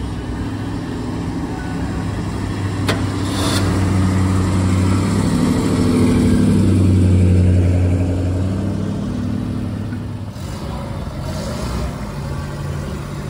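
A classic car's engine running as it drives slowly past, a low rumble that grows louder as it approaches, peaks about halfway through and fades as it moves off. A single sharp click comes about three seconds in.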